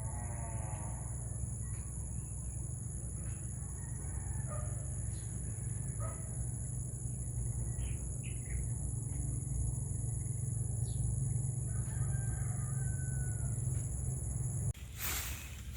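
A rooster crowing once at the start, followed by scattered faint bird calls over a steady low hum. About a second before the end the sound changes suddenly to louder noise.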